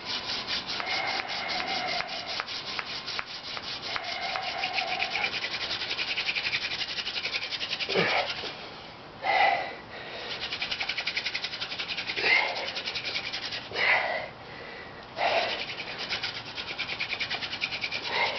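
Sotol spindle spun back and forth between the palms on a sotol hearthboard, a fast, even rubbing of wood on wood, several strokes a second, as the friction grinds smoking dust toward a coal. The drilling breaks off briefly a little past the halfway point and resumes, with a few loud breaths between strokes from the effort.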